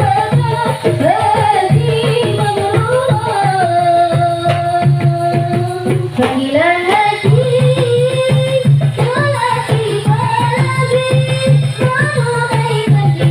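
Marawis ensemble playing: a voice sings a melody over fast, steady hand-drum strokes.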